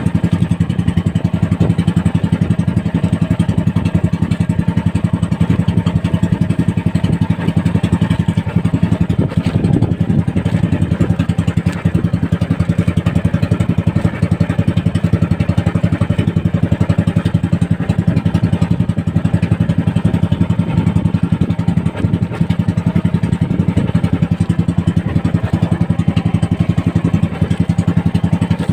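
Small boat engine running steadily at a constant speed, an even rapid pulsing with no changes in pitch.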